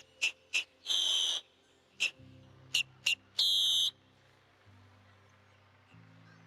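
A bird calling: a quick series of short, high, piercing notes with two longer drawn-out calls among them in the first four seconds, then it stops. Soft background music with slow changing chords runs underneath.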